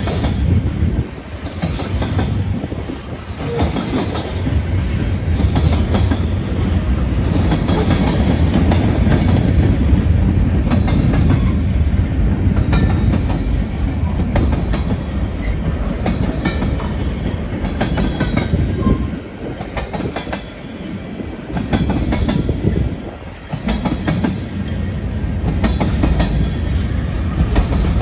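Freight cars (covered hoppers and tank cars) rolling past: a steady heavy rumble with wheels clacking over the rail joints. The noise dips briefly a few times.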